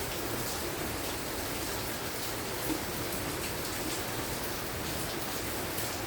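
Steady light rain falling: an even hiss with many small drops ticking.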